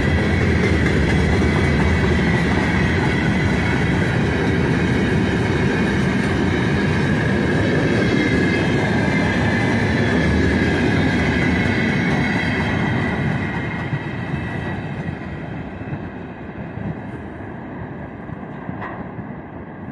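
A long freight train of open gondola wagons rolling past at close range, its wheels rumbling and clacking over the rails with a steady high ringing squeal. The last wagons pass about thirteen seconds in, and the sound fades as the train moves away.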